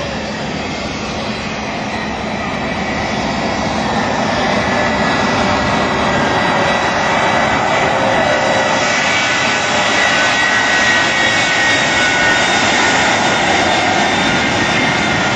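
The Shockwave jet truck's three jet engines are running, with a high turbine whine over a steady rush. The sound builds in loudness over the first several seconds, then holds steady. It is a warm-up run, short of a full afterburner run.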